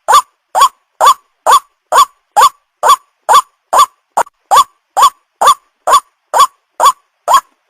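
White-breasted waterhen calls used as a lure for young birds: a short, sharp note repeated steadily about twice a second, each note rising quickly in pitch, some seventeen times in a row.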